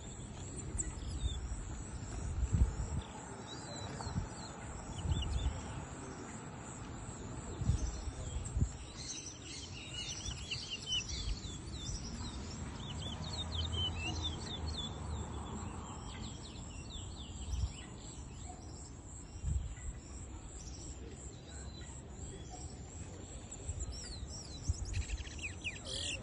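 Twa-twa (seed finch) singing in quick runs of short, high chirping notes, thickest in the middle, over steady background noise, with a few loud low bumps on the microphone.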